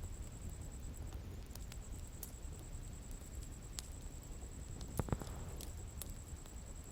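Bonfire burning with a steady low rush and scattered sharp crackles and pops, a louder burst of popping about five seconds in.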